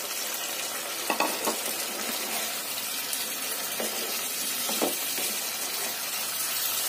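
Capsicum and potato masala sizzling in a kadhai as it is stirred with a wooden spatula: a steady frying hiss, with a few soft knocks of the spatula against the pan about a second in and again near five seconds.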